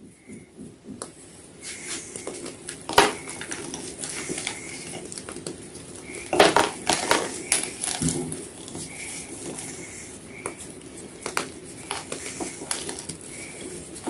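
White gym chalk being crunched: irregular dry crackles and crumbling snaps, with the loudest crunches about three seconds in and again around six to seven seconds.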